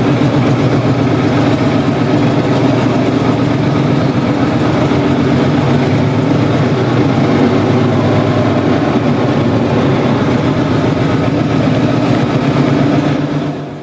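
Marshall tractor engine running steadily with a fast, even pulsing beat, fading out just before the end.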